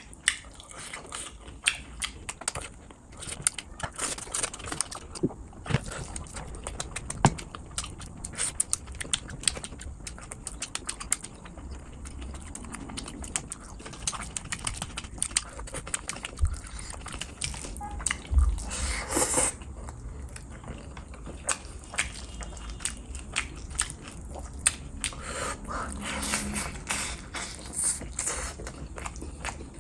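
Close-miked eating by hand: wet chewing, lip smacks and mouth clicks through a mouthful of rice and fish curry, along with the squish of rice being mixed in gravy by hand. About nineteen seconds in comes the loudest moment, a short rush of noise.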